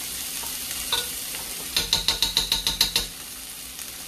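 Steady sizzle of food frying on the stove. Partway through comes a quick run of about nine ringing metal taps, a spoon knocked against a rim while sour cream is spooned into a pot of mashed potatoes.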